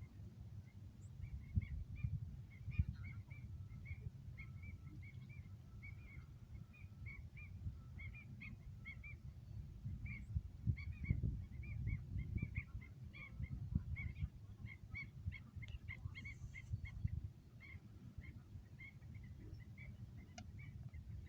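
Birds calling outdoors: a steady series of short, high chirps, about three a second, over a low, uneven rumble.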